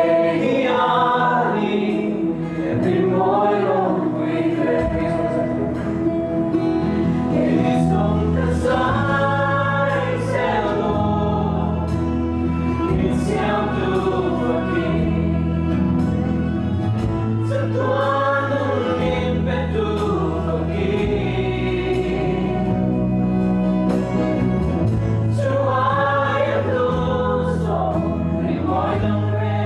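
Christian worship music: a group of voices singing over accompaniment that holds long, low sustained chords, changing every couple of seconds.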